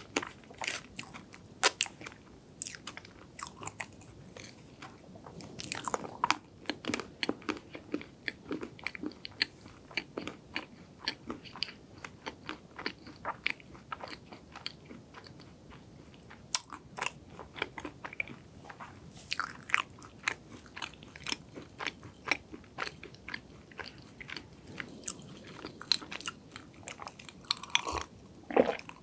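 Close-miked eating sounds: someone chewing soft chocolate cake with many small, sharp, wet mouth clicks. Near the end come louder swallowing sounds as a drink is gulped from a glass.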